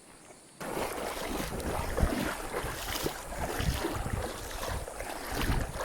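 Wind buffeting the microphone: a rough rushing noise with irregular low thumps that starts suddenly about half a second in.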